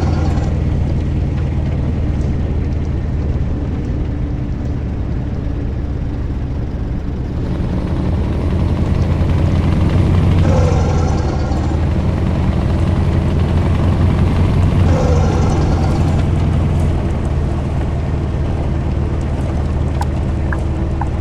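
Scania truck's V8 diesel engine running steadily under way, its note growing a little louder about halfway through.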